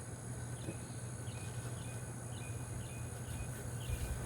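Outdoor insect chorus: a steady high-pitched drone with a short chirp repeating about every half second, over a steady low hum.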